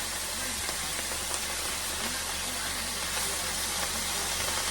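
Kale greens sizzling in hot olive oil in a skillet as they cook down: a steady hiss that stays even throughout.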